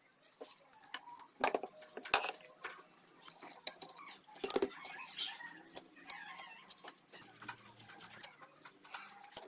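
Scattered clicks, taps and clinks of metal parts and hand tools being handled during engine work, with a sharp knock about two seconds in the loudest.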